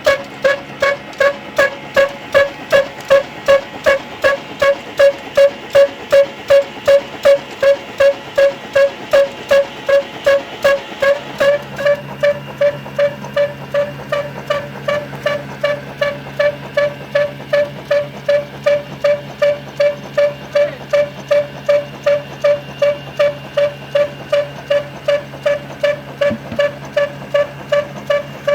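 Old stationary engine running steadily at a slow, even beat of about two strokes a second, each stroke with a ringing, pitched clank. A steady low hum joins in about twelve seconds in.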